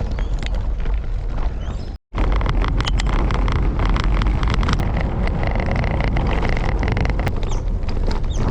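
Wind buffeting the microphone of a camera on a moving bicycle, a heavy steady rumble with scattered light ticks. The sound cuts out for an instant about two seconds in.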